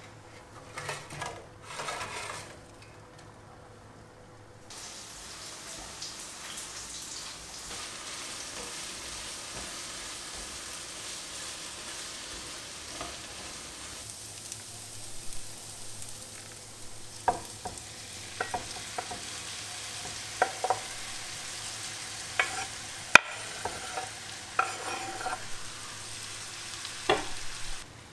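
Food frying in a pan, with a steady sizzle that starts about five seconds in, and sharp taps and scrapes of a utensil stirring it in the second half.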